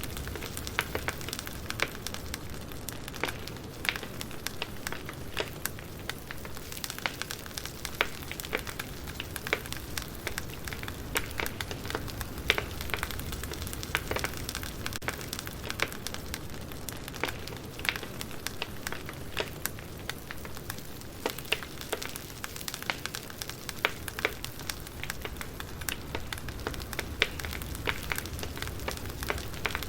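A wood fire crackling, with irregular sharp pops and snaps of burning logs over a steady low rumble and hiss.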